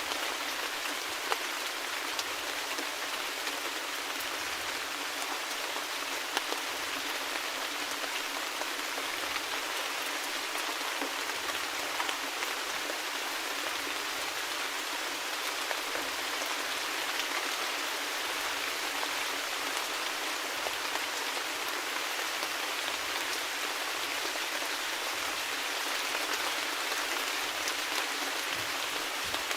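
Steady rain falling, with individual drops ticking here and there.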